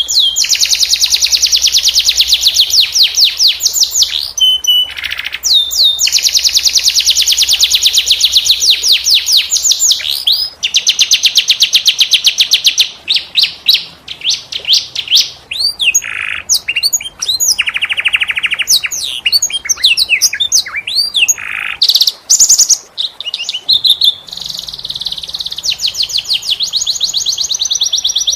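Domestic canary singing: long, fast rolling trills of rapidly repeated high notes, broken around the middle by shorter, more varied phrases and brief pauses.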